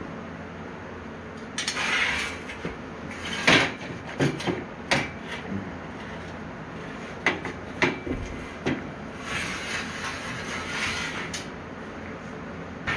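Knocks and clanks of a metal bed frame being handled, with two longer bursts of scraping, about two seconds in and again from about nine to eleven seconds.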